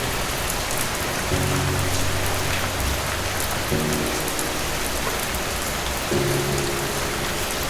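Steady rain hissing, with soft low sustained music chords entering three times, about every two and a half seconds.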